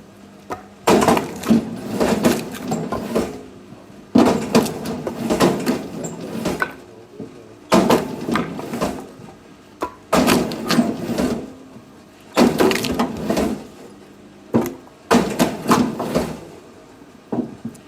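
Firewood being split, six times about every two to three seconds. Each split opens with a sharp crack, followed by a second or two of splintering and pieces of wood clattering.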